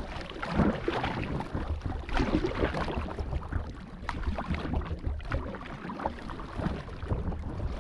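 Kayak being paddled through the water, with irregular splashing and water washing against the hull. A steady low rumble of wind runs on the microphone underneath.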